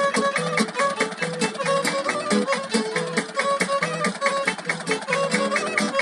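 Violin and guitar playing a folk tune in a quick, even rhythm of short notes.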